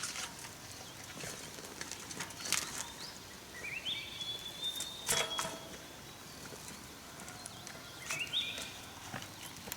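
A bird calling twice, each call climbing in quick little steps to a high held note, the first held a little over a second. Scattered sharp clicks or taps sound between the calls.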